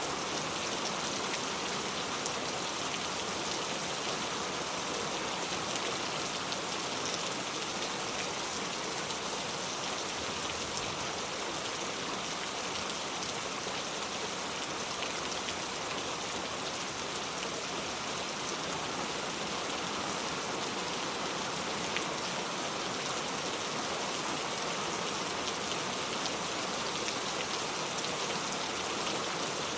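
Steady rain falling, with a dense even hiss and scattered individual drops ticking on surfaces.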